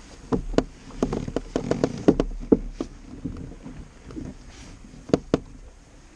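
A run of sharp knocks and clicks, like gear being handled against a kayak's hull, bunched in the first three seconds with a close pair of louder knocks about five seconds in, over light wind noise.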